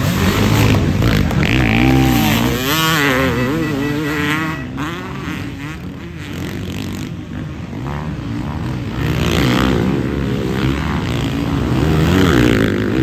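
Several 450-class motocross bikes racing, their engines revving up and down, with engine notes rising and falling as the riders work through the track.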